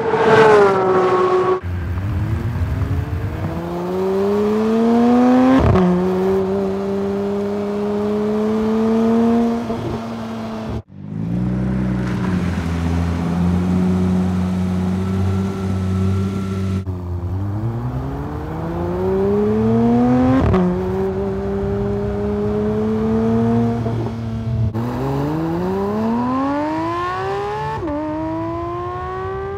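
Porsche 911 GT3 (992) four-litre flat-six boxer engine accelerating hard, its pitch climbing and then dropping sharply at each upshift, several times over. There is a brief break about eleven seconds in, followed by a few seconds of steadier running.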